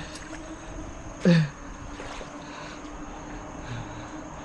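A short vocal exclamation, falling in pitch, about a second in, over a steady low hum and outdoor background noise.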